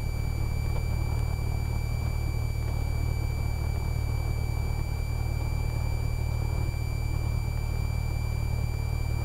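Cessna 172R's four-cylinder Lycoming engine running at low taxi power, a steady low drone, with a thin steady high-pitched whine over it.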